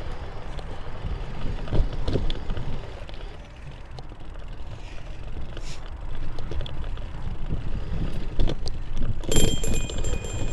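Mountain bike rolling over a rough dirt trail, heard through a camera mounted on it: a steady low tyre rumble with scattered rattles and knocks. Near the end a high steady squeal joins in, with fast clicking.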